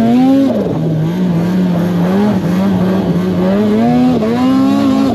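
Snowmobile engine running under throttle, its pitch climbing and then dropping off sharply about half a second in. It holds a steady note through the middle, then climbs again over the last couple of seconds before falling away near the end.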